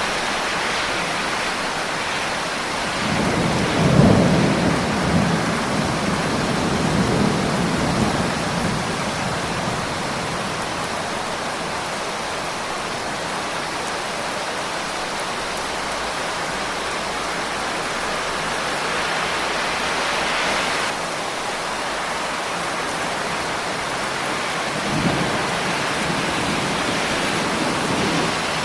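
Steady heavy rain, with a rolling rumble of thunder a few seconds in that dies away over about five seconds, and a shorter rumble near the end.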